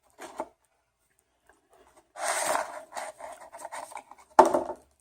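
Close-miked eating and food-handling noises, rubbing and scraping: a brief one at the start, a longer rustling stretch of several quick strokes from about two seconds in, and a louder short one near the end.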